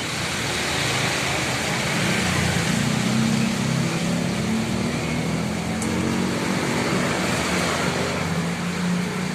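A motor vehicle's engine runs close by, swelling a little about two seconds in, over a steady hiss of rain and wet road noise.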